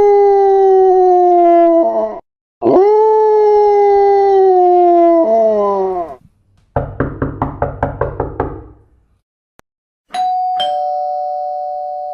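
Sound effects played one after another: two long howls, each held for a few seconds and sagging slightly in pitch, then a rapid run of about ten short pulses, and about ten seconds in a two-tone doorbell chime (ding-dong) that rings on and slowly fades.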